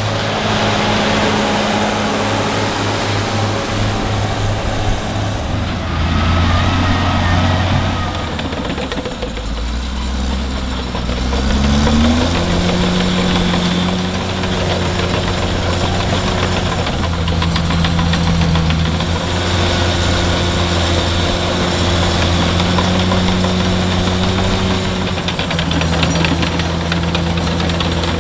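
Heavy farm machinery engine running. About eleven seconds in its pitch climbs quickly as it revs up, then holds at the higher speed with small rises and falls.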